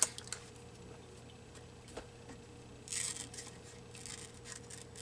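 Scissors snipping paper while cutting out a small printed doily: a sharp snip at the start, then a flurry of paper rustle about three seconds in and a run of small quick snips.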